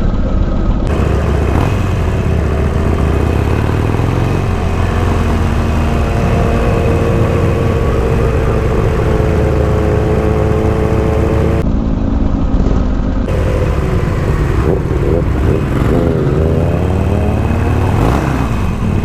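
Motorcycle engines running while riding, with a loud steady low rumble. The engine note holds steady for a few seconds mid-way, then revs rise and fall several times near the end.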